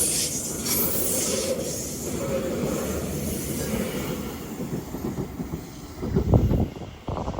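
Class 331 electric multiple unit running through the station at speed: wheels rumbling on the rails, fading as it goes away. A brief loud low thump comes near the end.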